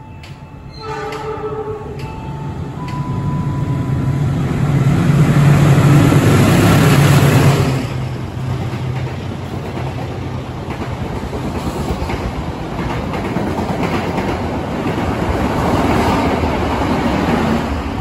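Diesel-hauled passenger train running through the station at speed without stopping: a short horn blast about a second in, the locomotive loudest around six seconds in, then the coaches rattling past over the rail joints.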